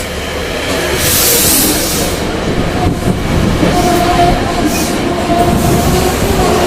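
Metro-North commuter train rolling into the station and slowing, with a hiss about a second in and a steady brake or wheel squeal starting about halfway through.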